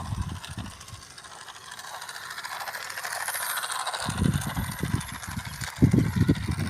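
Toy train running along its track: a small motor's whirr and rattle that grows louder as it approaches, turning into heavier clattering knocks from about four seconds in.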